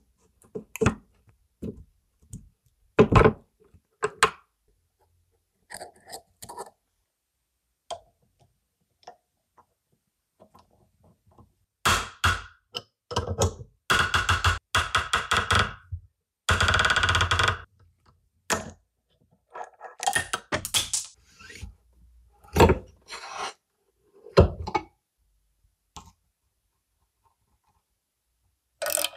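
Workshop hand-tool work on steel suspension parts: scattered knocks, clunks and clicks, with a rapid run of clicks in the middle and a steady noisy burst lasting about a second just after it.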